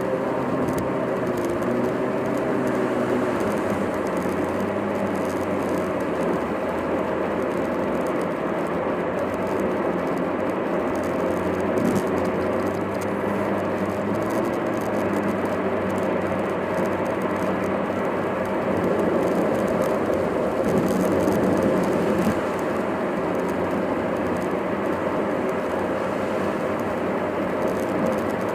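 Steady car driving noise heard from inside the cabin: engine and tyre noise with faint wavering tones over a constant rush.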